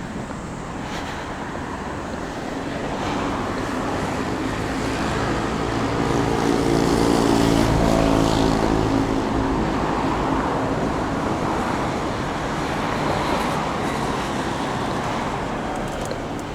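A motor vehicle passing close by: engine and tyre noise builds to a peak about halfway through, then slowly fades.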